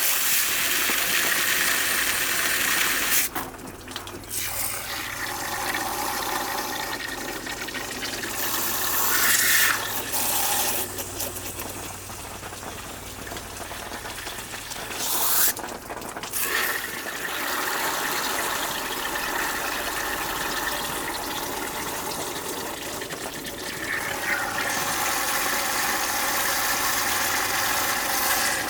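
Water running hard from a tap and splashing, briefly interrupted twice, with rising filling tones as water collects in something.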